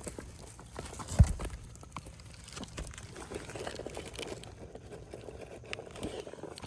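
Asphalt roof shingles being handled during a repair: light rustling and small taps, with one sharp knock about a second in.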